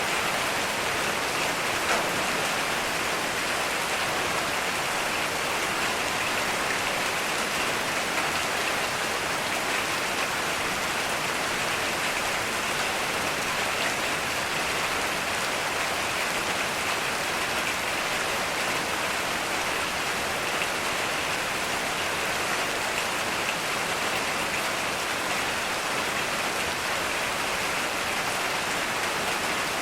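Heavy rain falling steadily: a dense, even hiss of rain with no break or change.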